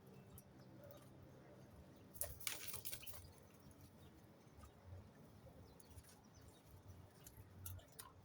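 Faint scattered clicks and scratches of birds moving about, with a short fluttering rustle a little after two seconds in.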